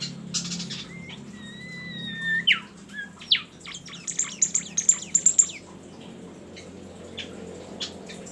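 A bird singing: a held whistled note, then a few sharp downward-sliding notes and a fast run of high chirps.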